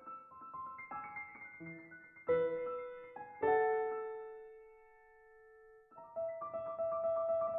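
Solo piano music: a run of notes, then a chord about three and a half seconds in that rings and fades away before the playing picks up again.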